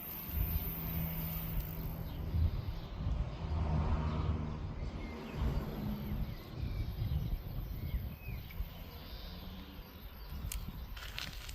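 Outdoor ambience: an uneven low rumble with a few faint, short bird chirps in the middle.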